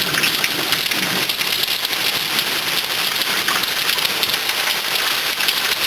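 Rain from a summer thunderstorm coming down steadily, a dense, even hiss of drops on the ground and surfaces.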